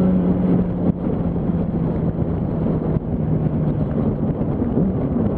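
Steady wind noise buffeting the microphone while riding at freeway speed, with the Yamaha R1's inline-four engine running faintly underneath.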